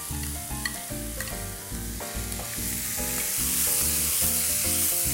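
Diced chicken and vegetables sizzling in a hot pan as they are stir-fried and turned with a wooden spatula. The sizzle grows louder about halfway through, over soft background music.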